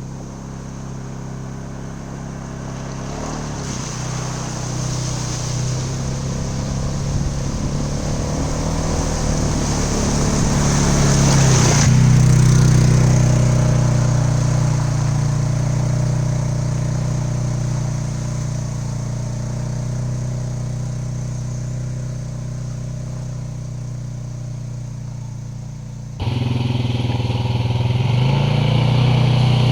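ATV engine running steadily while riding, growing louder to a peak about twelve seconds in and then easing off, with a sudden jump in loudness near the end.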